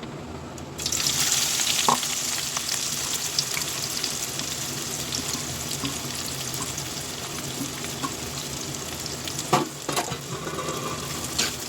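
Onions sizzling as they fry in hot oil in a kadhai, the sizzle starting about a second in, with a few knocks of a spoon against the pan as they are stirred.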